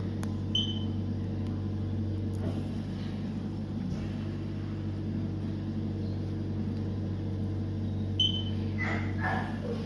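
Steady low electrical hum of equipment, with two short high electronic beeps, one just after the start and one near the end.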